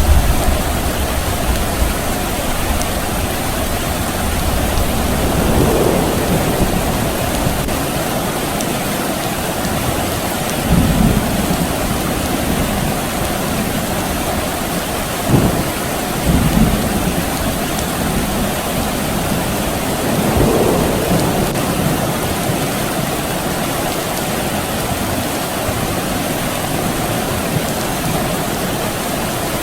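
Steady rain falling, with low rumbles of distant thunder that swell and fade several times.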